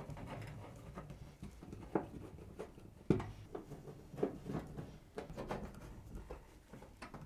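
Irregular clicks, knocks and light scraping as a washing machine's back panel is handled and fitted back into place, with a sharper knock about three seconds in.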